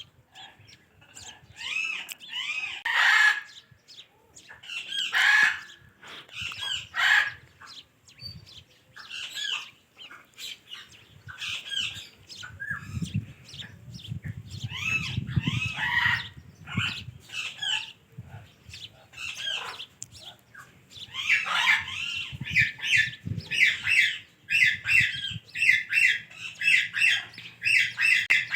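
Ringneck parakeet calling and chattering in bursts of harsh, high calls, ending in a fast run of repeated calls of about three a second.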